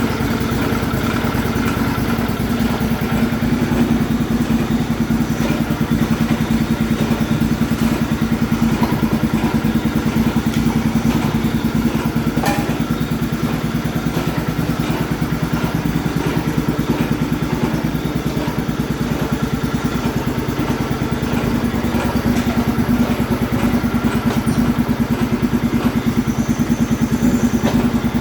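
Engine of an MTD-built White lawn tractor running steadily, with an even, rapid firing beat.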